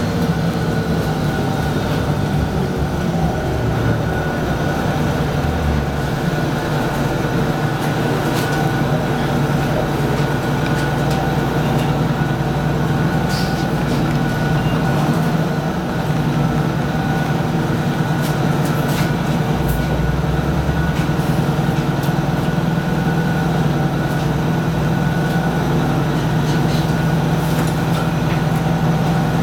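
Detroit Diesel 6V92TA two-stroke V6 diesel of a 1995 Nova Bus Classic running steadily, with a steady high turbo whistle above the engine note.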